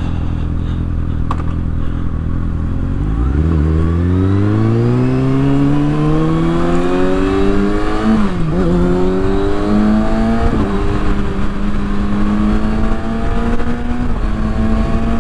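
Kawasaki ZX-6R inline-four with a Yoshimura exhaust, running steadily at low revs, then pulling away from about three seconds in with a steadily rising pitch. The pitch drops sharply with a gear change past the middle, then holds and climbs slowly again.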